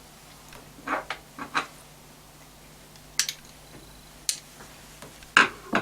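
Small metal and plastic parts handled by hand: a few scattered clicks and taps as a mini dirt bike's fuel tap is taken apart to get out its rubber seal.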